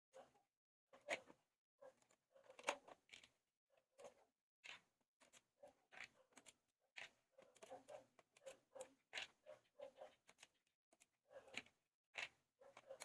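Hands and small tools working on a laptop: an irregular run of small clicks and scratchy scrapes, a few every second.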